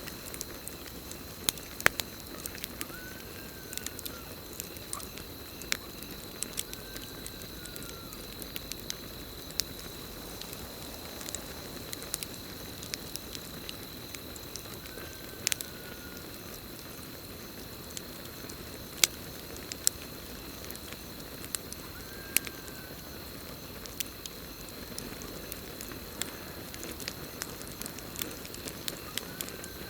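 Campfire crackling and popping, with many sharp snaps at uneven intervals over a soft steady hiss. A steady high cricket trill runs underneath, and a short faint call sounds every several seconds.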